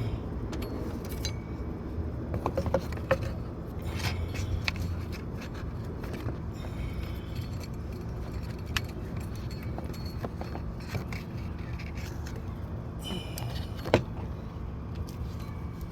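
Scattered metallic clinks and light knocks of hand tools and engine parts being handled during serpentine belt and tensioner removal, with one sharper click near the end, over a steady low hum.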